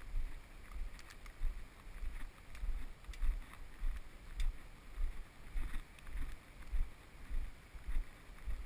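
Footsteps of a hiker walking at a steady pace on a trail, heard as dull low thuds on the camera's microphone, about one and a half to two steps a second.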